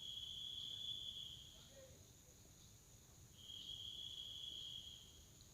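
A faint insect trilling: two steady high-pitched trills, each about two seconds long, with a short pause between, over a faint constant hiss.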